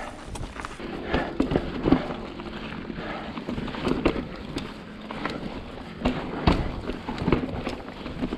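Long-travel enduro mountain bike riding over slickrock: tyre and wind rumble, with frequent sharp knocks and rattles from the bike over bumps.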